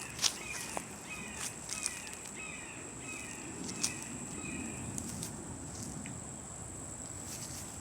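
Insects keeping up a steady high-pitched drone while a bird calls a quick run of short falling notes for the first few seconds, with scattered light clicks.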